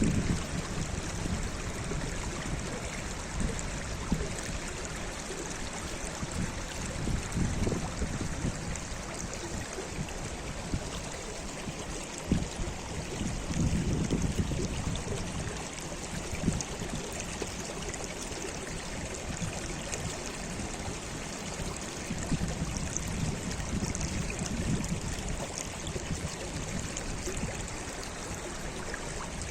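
Steady rush of flowing water from a stream, with low gusts of wind buffeting the microphone now and then.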